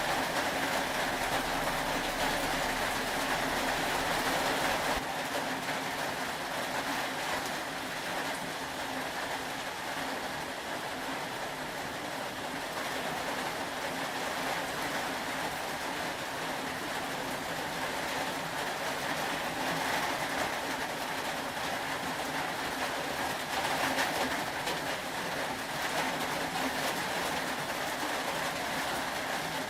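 Steady rain falling, an even hiss; the sound thins a little about five seconds in.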